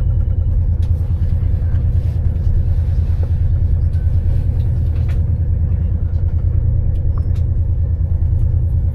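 Train running with a steady low rumble, heard from on board, with a few faint clicks over it.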